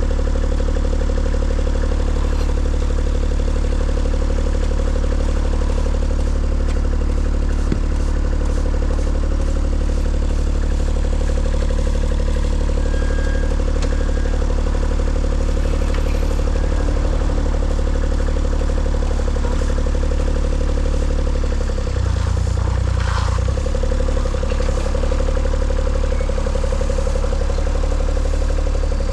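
An engine running steadily, with a brief change in its pitch about twenty-two seconds in.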